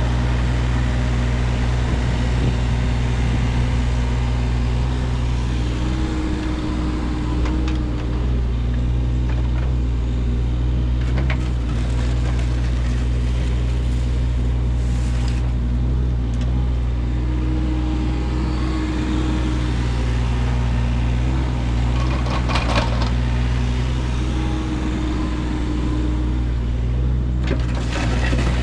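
An engine running at a steady speed, with a few sharp knocks about three quarters of the way through and again near the end.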